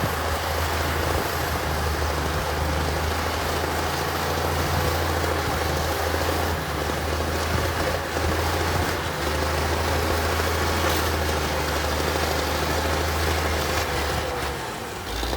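Diesel engine of heavy earthmoving equipment running steadily, a deep, even drone under a noisy mechanical rush that eases off near the end.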